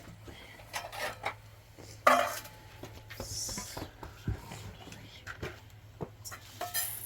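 Scattered knocks and clatter of objects being handled, the loudest about two seconds in, over a steady low hum.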